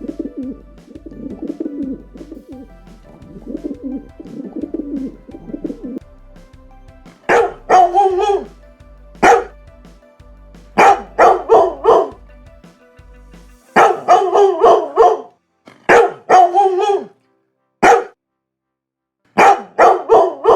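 Pigeon cooing, low and repeated, for about the first six seconds; then a dog barking loudly in short bouts of two to four barks, separated by brief pauses.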